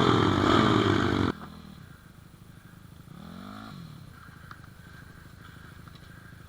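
Pit bike engine running loud with its pitch rising and falling, then cutting off suddenly about a second in. After that a much fainter low engine note continues, with a brief soft rev about three seconds in.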